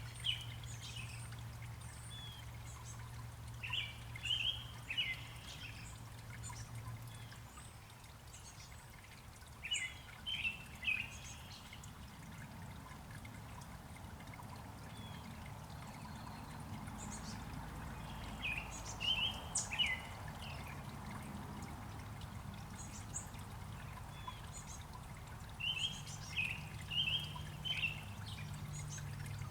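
A bird calling repeatedly in short bursts of three or four quick chirps, over a steady background of trickling water.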